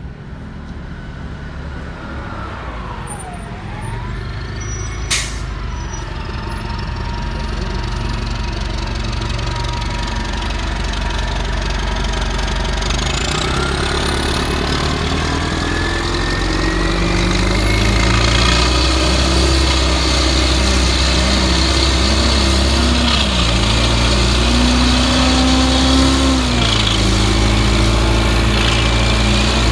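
Transit bus's Detroit Diesel Series 50G natural-gas inline-four running with a loud exhaust, growing steadily louder and rising in pitch as it pulls away and accelerates. A sharp click comes about five seconds in.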